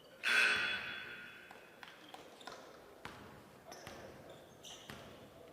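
Gym floor sounds during a stoppage in play: a sudden loud, ringing squeak just after the start, fading over about a second, then a basketball bouncing a few times on the hardwood.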